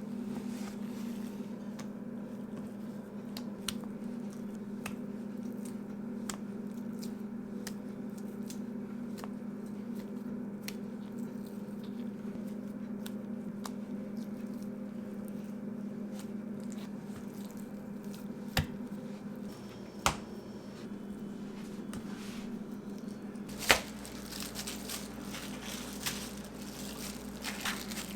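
Kitchen food-prep handling sounds over a steady low hum: scattered soft clicks and squishing, three sharp knocks in the second half, then rustling, crinkling noise for the last few seconds.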